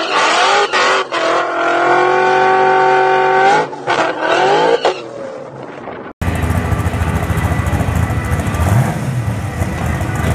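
An engine revs up and holds a steady pitch for a couple of seconds, then cuts off suddenly about six seconds in. After that, a Dodge Challenger Hellcat's supercharged Hemi V8 rumbles deeply at low revs, with a brief blip near the end.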